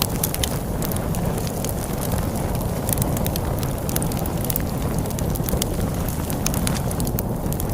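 Log fire crackling, with irregular sharp pops several times a second, over a steady low rush of storm wind.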